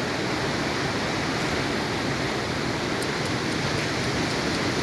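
Floodwater rushing steadily, a constant even roar of moving water.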